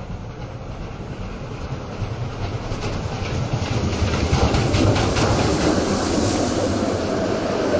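A train approaching and growing steadily louder, with a low rumble and quick clicks of wheels over rail joints about halfway in.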